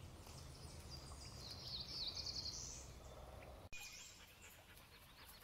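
A songbird singing a quick phrase of high notes, lasting about a second and a half and ending on a rising sweep, over a faint low rumble. The rumble stops abruptly about two-thirds of the way through, leaving a few faint high bird calls.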